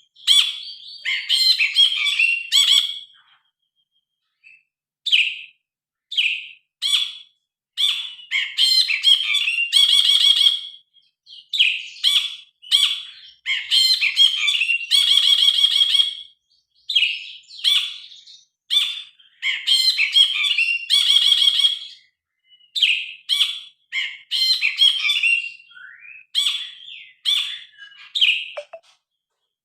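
A brinji kelabu bulbul singing loudly in short, varied chirping and whistled phrases, one after another with brief pauses, including a gap of a couple of seconds early on.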